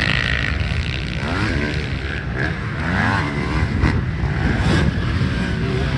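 Motocross dirt bike engines running, their pitch rising and falling several times as the throttle is opened and closed.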